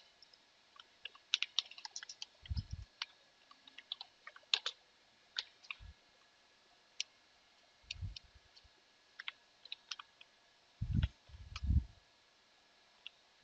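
Computer keyboard typing: irregular, quick key clicks, with a few dull low thuds in between.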